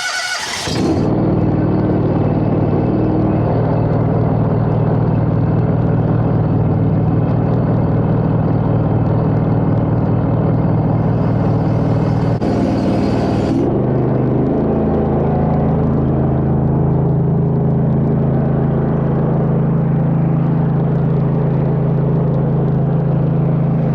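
Gas engine of an 8-gallon-a-minute pressure washer, just started with the choke on, running steadily with a constant engine note. About 11 seconds in a hiss joins for a couple of seconds, and about 14 seconds in the engine's note shifts, then runs steady again.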